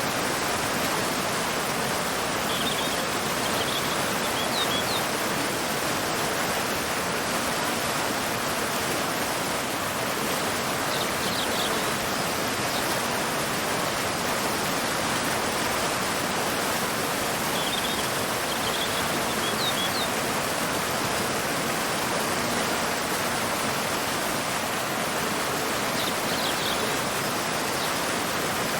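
Waterfall pouring into a river: an even, unbroken rush of falling water. Over it a bird gives short, high chirps four times, about every seven or eight seconds.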